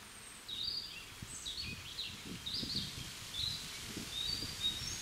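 A songbird singing a run of quick, varied chirps and short sweeps that starts about half a second in, over a low, uneven rumble.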